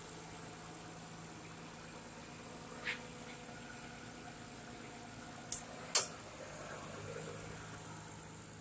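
Nissan RB25DE 2.5-litre straight-six of a 1994 Skyline R33 GTS4 idling steadily with the air conditioning on. A few sharp clicks break in, the loudest about six seconds in.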